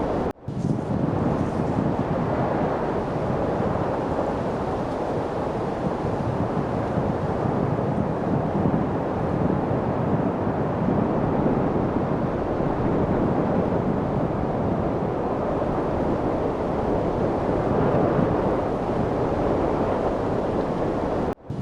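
Steady light wind noise, an even haze with no distinct events, dropping out for a moment just after the start and again near the end.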